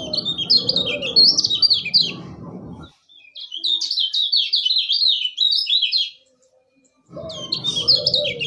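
Kecial kuning singing in three bursts of fast, high chattering notes, each note sliding down in pitch. The bursts are separated by short gaps, one about halfway through and one about a second long near the end. A low rough noise runs under the first and last bursts.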